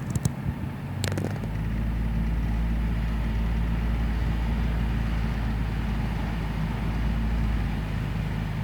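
Vehicle engine running steadily with a low rumble, with a few short clicks about a second in.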